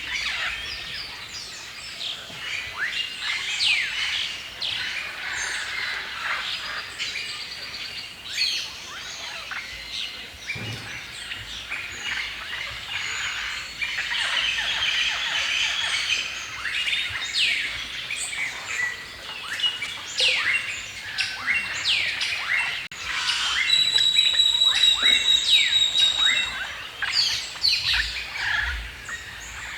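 A chorus of many forest birds chirping and singing in overlapping calls. Late on, a high, rapid trill stands out for a few seconds as the loudest sound.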